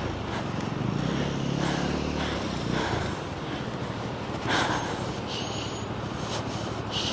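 Motorcycle engine running while riding, its note rising and falling a little.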